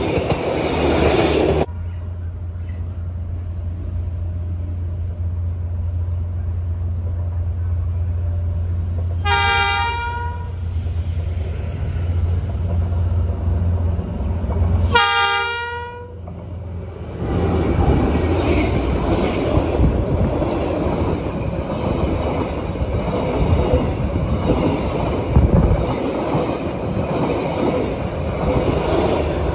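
Diesel locomotive engine running with a deep hum, its horn sounding twice: a blast of about a second roughly ten seconds in, and a shorter one around fifteen seconds. Then the train rolls by with loud wheel-on-rail rumble and clatter.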